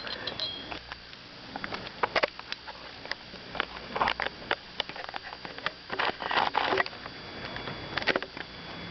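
Irregular clicks, knocks and rustles of someone moving and handling things close to the microphone, with a couple of breaths near it; the engine is not yet running.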